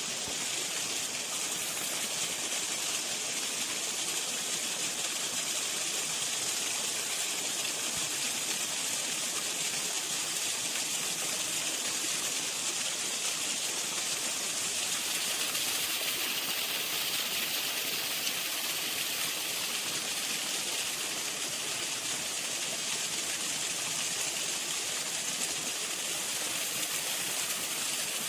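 Waterfall: a steady rush of falling water, a continuous high hiss.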